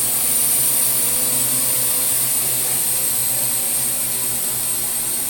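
Parrot AR.Drone quadcopter's four electric motors and propellers whirring steadily in flight, with a strong high hiss over a faint, slightly wavering hum.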